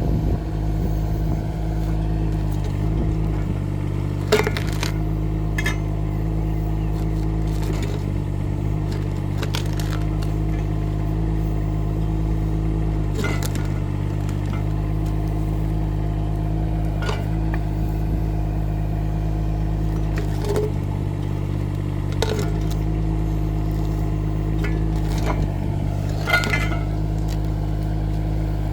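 Rippa R15 mini excavator's engine running steadily under work, with sharp knocks and clanks every few seconds as the machine digs at tree stumps and roots.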